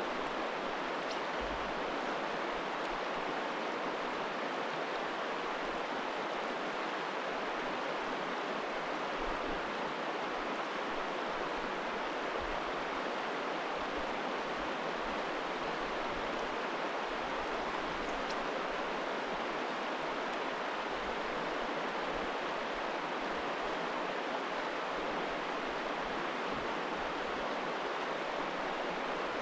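Steady rushing of river water, an even hiss with no change throughout.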